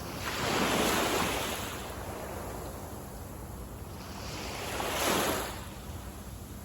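Small waves breaking on a sandy beach: two surges of surf, about a second in and again about five seconds in, each washing up and fading, over a steady background hiss of sea, with some wind on the microphone.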